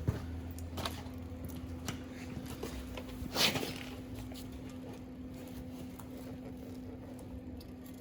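Steady electrical hum from the welding setup between welds, with scattered light clicks of metal being handled and a short hiss about three and a half seconds in.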